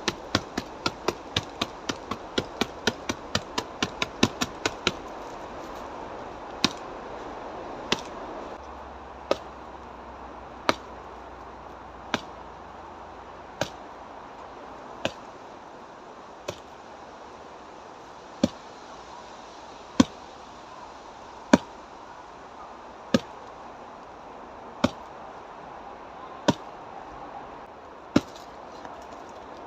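Karate strikes landing on a dead tree trunk, sharp knocks against dry wood. A rapid flurry of about four strikes a second runs for the first five seconds, then single strikes follow about every one and a half seconds.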